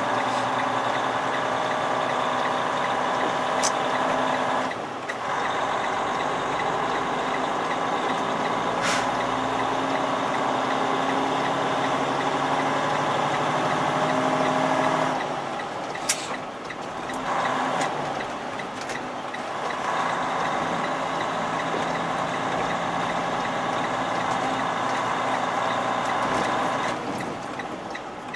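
Semi-truck diesel engine running while driving, heard from inside the cab. The engine note falls away and picks back up twice, about five seconds in and again around fifteen seconds, with a few short sharp sounds over it.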